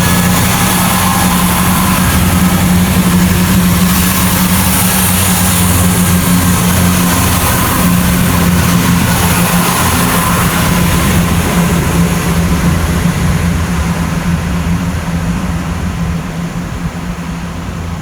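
Diesel train running at the platform, its engine note steady with wheel and rail noise over it, then fading away over the last several seconds as it moves off.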